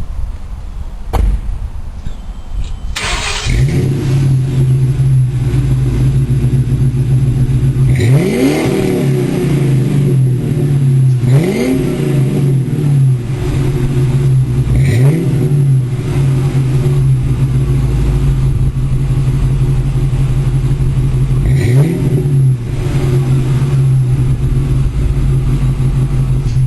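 Ford Mustang GT V8 through a Flowmaster 40 Series exhaust, starting up about three seconds in and settling into a steady, loud idle. It is blipped four times, each rev climbing and dropping back to idle.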